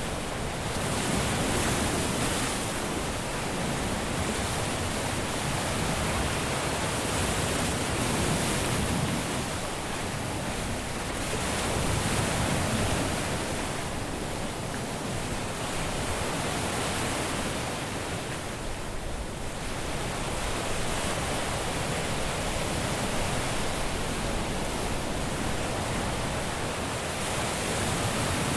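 Caribbean sea surf breaking on a beach: a continuous wash of waves that swells and eases every few seconds.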